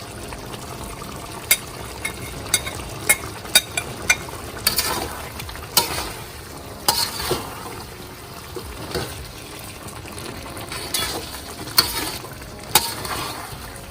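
A cooking utensil stirring a frying chicken, onion and tomato masala in a pot, just after chili, coriander and biryani masala powders go in. Steady sizzling runs underneath, with repeated sharp clicks and scrapes of the utensil against the pot, thickest in the first few seconds and again near the end.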